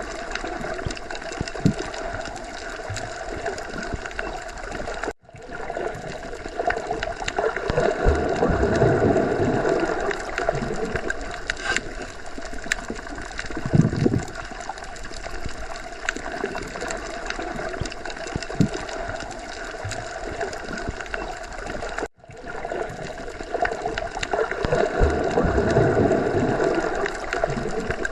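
Underwater ocean ambience: a continuous gurgling, bubbling wash of water with scattered small clicks. It swells louder and deeper twice, and twice breaks off for an instant.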